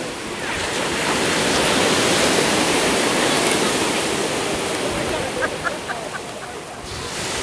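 Ocean surf: a wave breaking and washing in, the rush of water swelling about a second in and easing off near the end.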